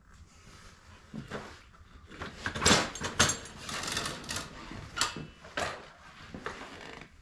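Irregular knocks and clatters, a few a second, loudest around three seconds in: handling noise rather than a running engine.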